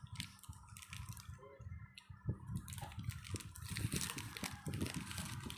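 Close-up wet chewing and mouth sounds of people eating, a run of irregular squishy clicks and smacks.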